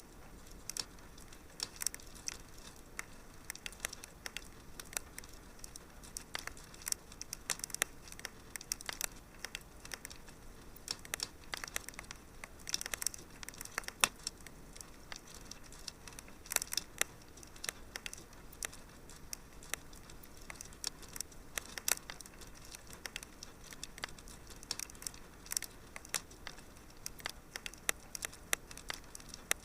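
Wood fire in a fireplace crackling, with many irregular sharp pops and snaps over a faint steady hiss; the loudest pop comes about fourteen seconds in.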